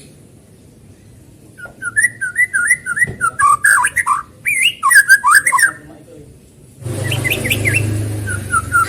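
White-rumped shama (murai batu) singing: fast runs of quick whistled and chattering notes that start about two seconds in and stop after about four seconds. The song picks up again near the end over a low background hum.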